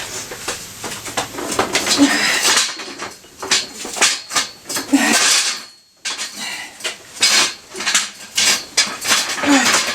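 Irregular metal clanks and clinks as a Kawasaki ZZR600 engine is shifted and knocked against its frame and dolly while being worked into place, with a few short grunts. The sound stops almost completely for a moment about six seconds in.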